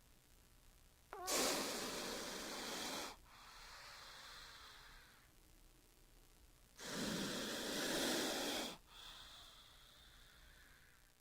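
King cobra hissing: two long, loud hisses about six seconds apart, each followed by a fainter, softer hiss.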